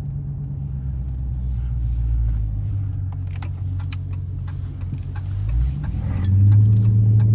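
Dodge Challenger Scat Pack's 392 HEMI V8 running at low speed, a steady low drone that grows louder and climbs a little in pitch near the end, with scattered light clicks.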